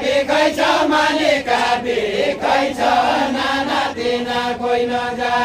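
Group of voices singing a Deuda folk song in a chant-like, unaccompanied style, with held and gliding sung phrases.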